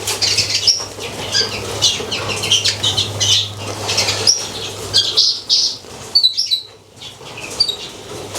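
Small cage birds chirping and twittering in quick, short calls throughout, over a steady low hum.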